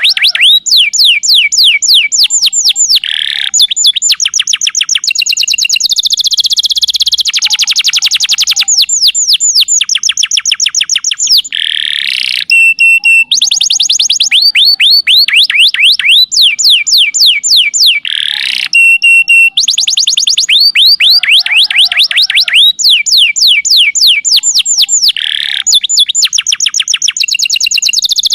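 Domestic canary singing a long, unbroken song: fast trills of rapidly repeated falling notes, switching to a new phrase every second or two. Twice there is a very high, buzzy passage.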